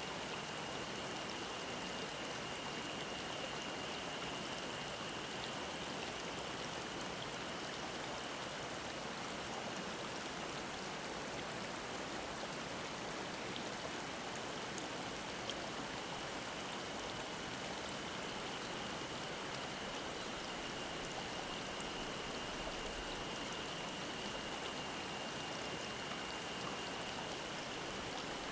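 Mountain stream flowing steadily, with a cicada's high, unbroken drone over the water.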